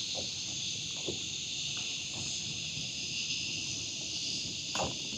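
Dense chorus of cicadas, a steady high-pitched buzz, with a few faint clicks.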